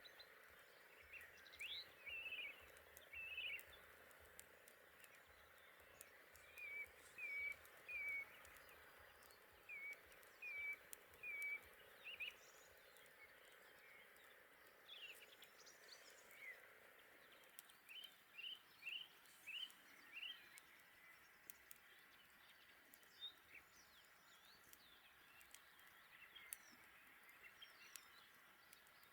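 Quiet outdoor ambience: some animal gives short, high calls in groups of three or four, over a faint steady hiss, with scattered faint crackles from a campfire.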